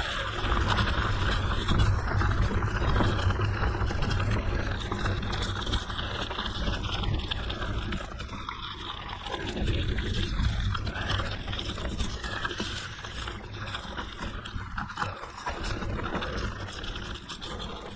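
Wind buffeting the microphone as a bicycle rides along a forest road, a steady low rumble with a rushing haze of tyre and air noise.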